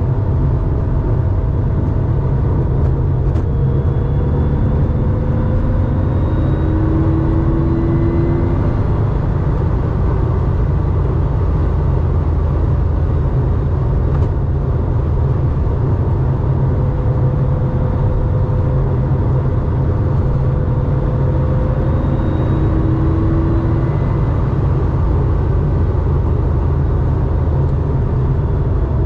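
1987 Porsche 911's 3.4-litre air-cooled flat-six running through a SCART 2-in-1-out muffler while the car cruises at a steady pace, heard as a loud, even low rumble with road noise. Faint higher tones rise slowly twice, around a fifth of the way in and again past the middle.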